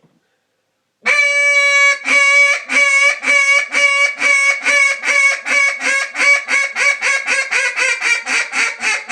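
Orange acrylic Hayes Bobwire duck call blown in a loud, high hail call. It opens with a drawn-out first note about a second in, then a long run of quacks that grow shorter and quicker, from about two to about three a second.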